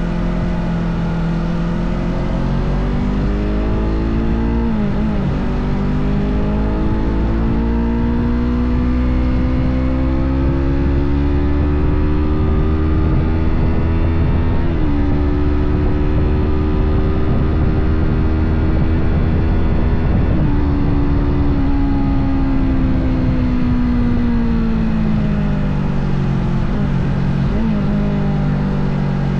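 Small Yamaha parallel-twin sport bike engine under way, its revs climbing steadily in each gear and dropping at each shift, about four shifts, then easing off and falling in pitch before picking up again near the end.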